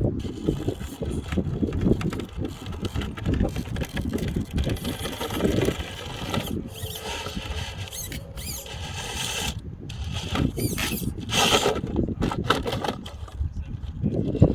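Radio-controlled truck driving, its motor whining in several short, rising bursts against a steady low rumble of the wheels working over rough ground.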